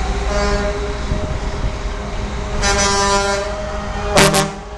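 Parade trucks driving past with their engines running, and horns honking: one horn sounds about two and a half seconds in, and a short, louder blast comes near the end.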